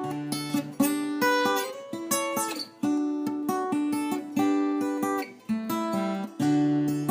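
Background music: acoustic guitar picked and strummed, with notes and chords starting every half second or so.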